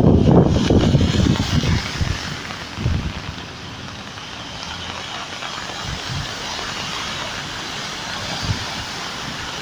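Wind buffeting the microphone for about the first two seconds, then a steady hiss of heavy rain and traffic on a wet street.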